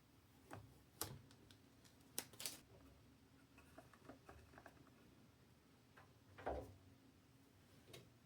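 Scattered small clicks and taps of computer parts being handled and fitted during a PC build, a few sharper clicks among soft ticks and one duller knock, over quiet room tone.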